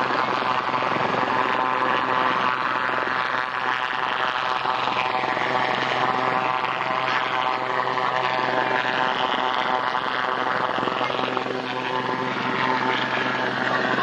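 Helicopter flying overhead, a steady engine and rotor drone with a higher turbine whine that rises and falls in pitch partway through.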